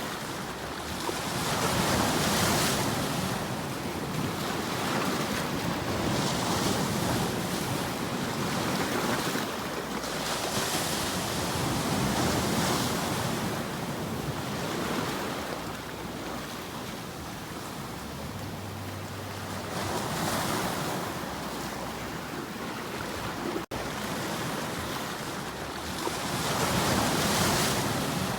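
Ocean waves breaking and washing on a shore, the surf swelling and falling back every few seconds, with a momentary cut-out near the end.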